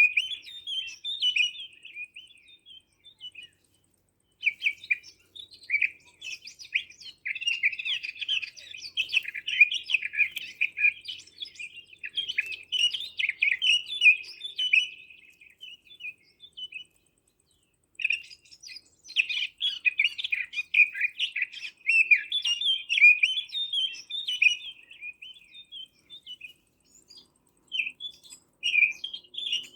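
Small songbirds chirping and twittering in a dense, fast run of high calls that stops dead twice for about a second.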